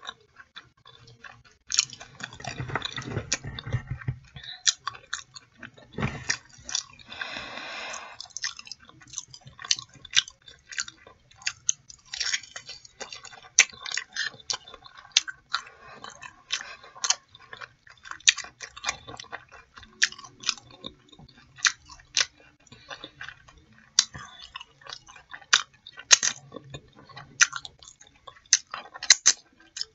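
Close-miked chewing and biting of fried chicken in mumbo sauce: many small, irregular mouth clicks and light crunches throughout.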